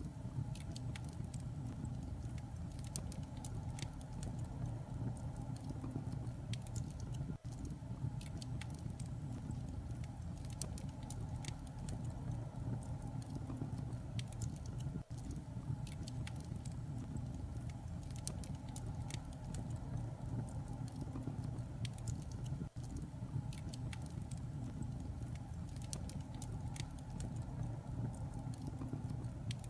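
Steady white-noise-style ambience: a constant low rumble under a patter of small clicks and crackles, with a brief drop-out about every seven and a half seconds.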